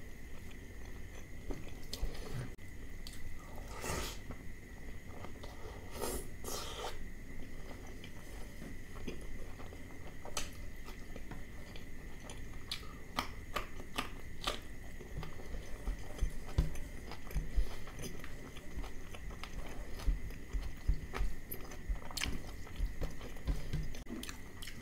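Close-miked chewing and biting of mutton liver curry and rice eaten by hand, with wet mouth sounds and occasional crisp crunching bites.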